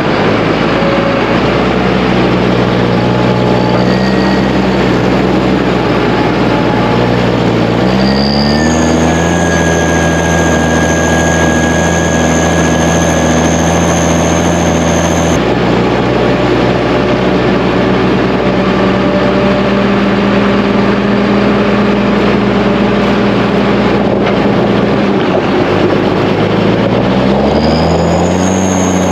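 Diesel engine of farm machinery running steadily and loudly. The revs rise about 8 seconds in, drop suddenly a few seconds later, and rise again near the end.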